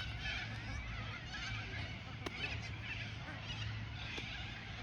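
A chorus of wild birds calling at once, many short chirping calls overlapping, over a steady low hum, with one sharp click a little past two seconds in.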